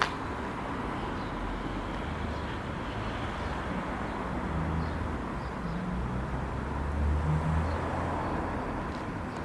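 Outdoor traffic noise: a passing motor vehicle's low engine rumble that builds and is loudest about seven seconds in, over a steady background hiss.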